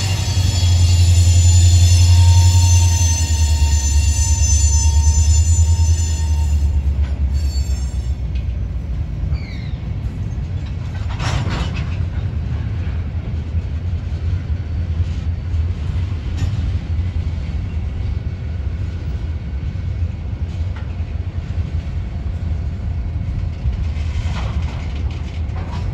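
A train rolling past. A heavy low drone of the locomotives fills the first several seconds, with a high wheel squeal dying away at the start. After that comes the steady rumble of cars rolling over the rails, with a couple of clanks about eleven and twenty-four seconds in.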